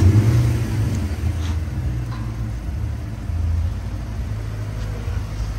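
Lexus LS460's 4.6-litre V8 with a one-off custom exhaust, just started: a loud start-up flare at the beginning settling into a steady low idle rumble.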